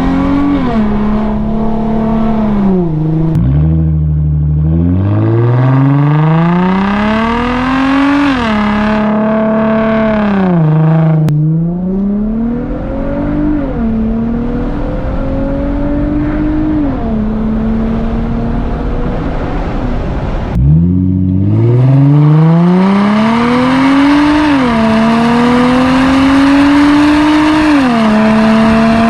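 Infiniti G35's 3.5-litre V6 with a muffler-deleted exhaust, accelerating hard through the gears. The engine pitch climbs and drops back at each shift several times over. Near three quarters of the way through the sound briefly dips off before the revs climb again.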